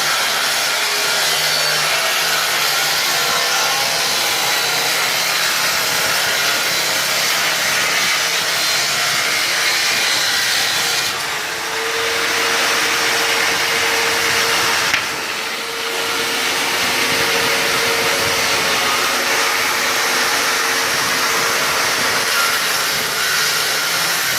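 Electric woodworking power tool running steadily on wood, dipping briefly twice about halfway through.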